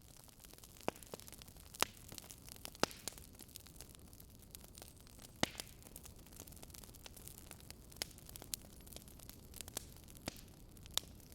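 Wood fire burning in a fireplace: sharp crackles and pops at uneven intervals, about one a second, over a steady soft hiss, with the loudest pops about two, three and five and a half seconds in.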